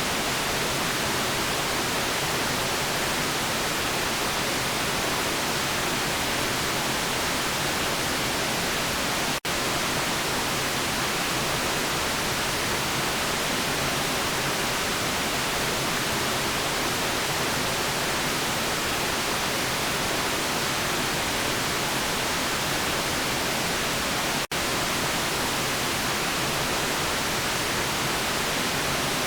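Steady electronically generated white noise, an even hiss with most of its energy in the upper range and little bass. Two very brief dropouts break it, at about 9 seconds and about 24 seconds in.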